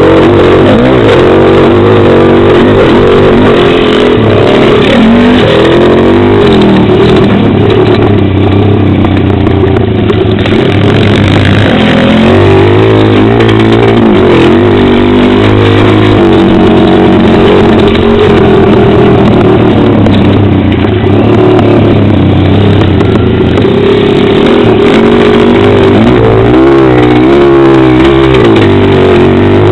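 Pit bike's small single-cylinder engine running hard, its pitch rising and falling as the rider opens and closes the throttle through gears and corners, with loud wind rumble on the helmet-mounted microphone.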